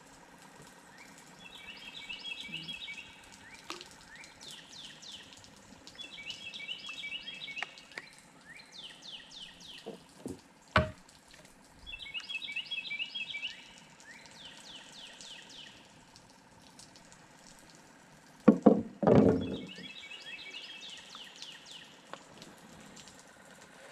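A songbird singing the same short song four times, about every five seconds: a quick buzzy chatter followed by a run of down-slurred notes. A sharp knock comes midway, and a louder pair of thumps near the end is the loudest sound.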